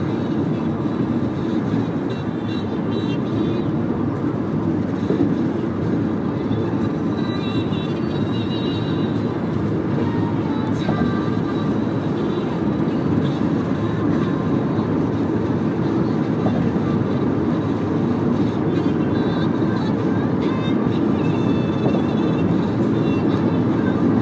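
Steady in-cabin road and engine noise from a moving Toyota Camry 2.4: an even low rumble of tyres and engine that holds at the same level throughout.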